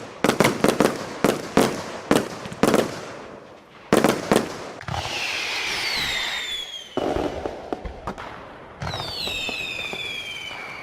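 Zeus Fireworks 'Legend' compound barrage cake firing a quick run of sharp shots, then a few more, followed by whistle effects: several high whistles gliding down in pitch over a hiss, twice.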